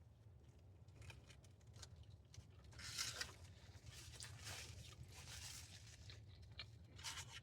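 Paper food wrapper crinkling in several short rustling bursts, loudest about three seconds in, over a faint steady low hum.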